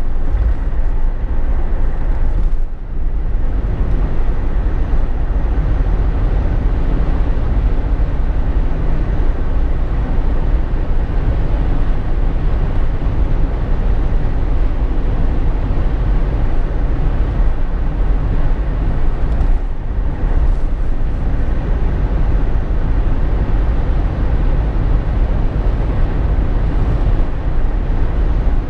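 Jeep Wrangler JK cabin noise while driving: a steady, loud drone of engine, tyres and wind. The noise dips briefly about three seconds in and again near twenty seconds.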